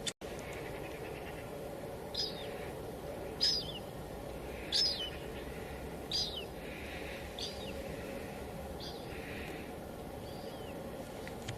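Steady drizzle hissing, with a bird calling over it: about seven short, high chirps, each falling in pitch, one every second and a bit, loudest in the middle.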